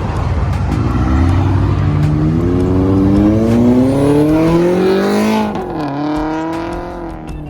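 Car engine revving, its pitch climbing steadily in one long pull for about four seconds, then falling away sharply as the throttle is let off, about five and a half seconds in.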